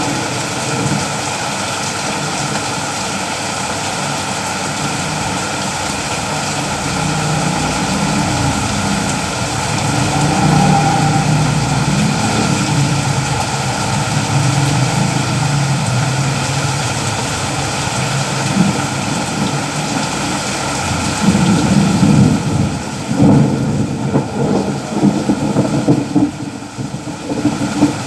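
Rain falling steadily, with a low rumble underneath that swells and grows choppier in the last several seconds.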